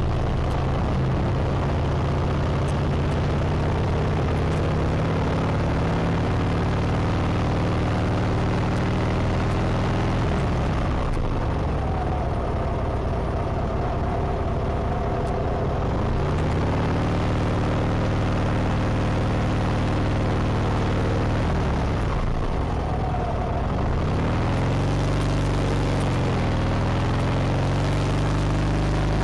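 Harley-Davidson Sportster 1200XL's air-cooled Evolution V-twin running under way, heard from the bike itself over steady wind and road noise. The engine note drops and climbs back several times as the speed changes.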